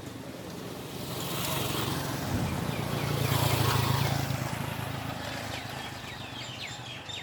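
A motor vehicle driving past, its engine and tyre noise building to a peak about halfway through and then fading away.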